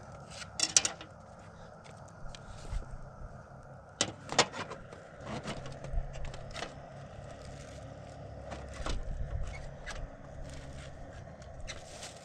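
Camp cooking: irregular knocks, clinks and scrapes of utensils on a pot, over a steady hiss.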